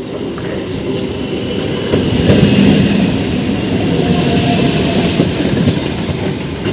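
Electric multiple-unit suburban local train pulling into the platform, the rumble and rattle of its carriages building as they pass close by, loudest about two to three seconds in.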